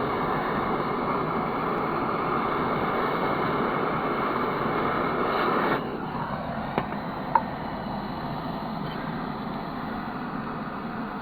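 Propane torch burning with a steady hiss, shut off about six seconds in. Then two light metallic clinks about half a second apart.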